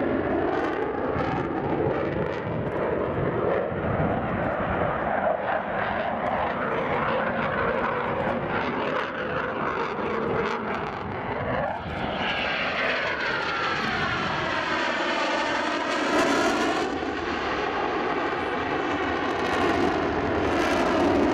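Eurofighter Typhoon's twin EJ200 turbofans running loud through a display manoeuvre. About halfway through, the tone of the jet noise sweeps down and then back up as the aircraft moves relative to the listener.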